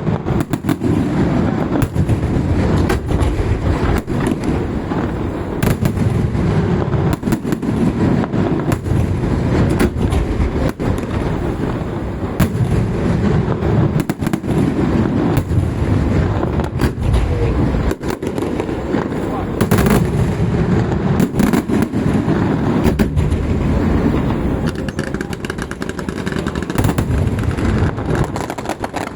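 Festival fireworks going off in a dense, continuous barrage of sharp bangs over a steady low rumble, with voices of onlookers underneath.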